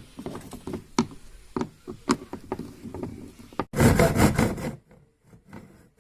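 Plastic parts of a stripped washing machine being handled: a quick run of knocks and clatters, then, about four seconds in, a loud rough scrape lasting about a second, followed by a few faint scrapes.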